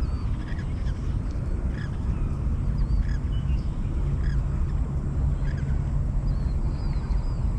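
A steady low rumble with short, faint bird chirps scattered through it.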